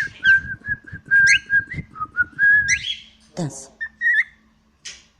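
Cockatiel whistling its song: a held, slightly wavering whistle for about three seconds over a low rustling. A few short chirps follow.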